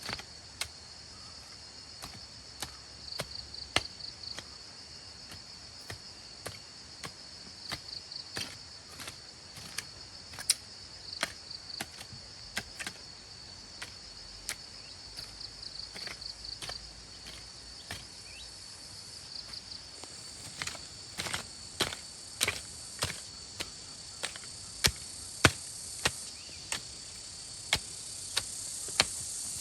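Insects chirping steadily in a pulsing trill, over a series of sharp knocks or chops at irregular intervals that come thicker and louder in the second half.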